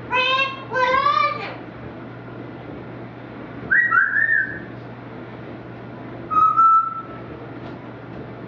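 Pet bird calling and whistling: two short chirruping calls that rise and fall, then a clear whistled note about four seconds in and a lower one near the end.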